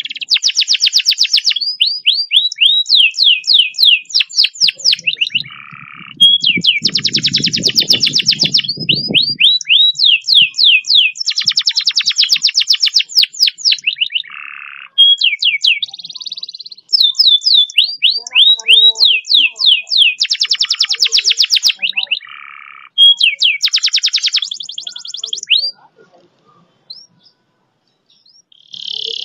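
Domestic canary singing a long, fast rolling song: rapid trills of repeated falling notes in phrases of a few seconds, with short breaks between them. The song thins to a few scattered notes near the end. A low rumble sounds briefly under the song about seven seconds in.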